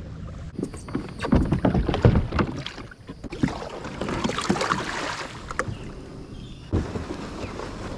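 Kayak on the water: a run of knocks and clatter against the hull, then water splashing, and one more knock near the end.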